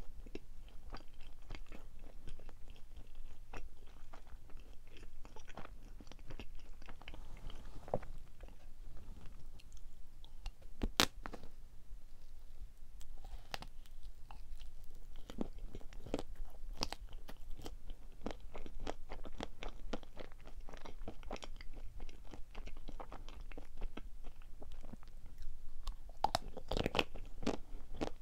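A person chewing and biting chocolate-coated marshmallow sweets: many short crisp clicks and smacks, with one louder sharp click about eleven seconds in.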